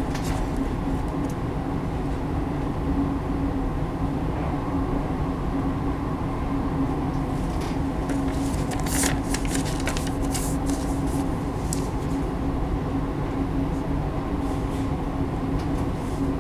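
Passenger train running on the rails, heard from inside the carriage: a steady rumble with a constant hum, and a run of sharp clicks from the wheels between about eight and twelve seconds in.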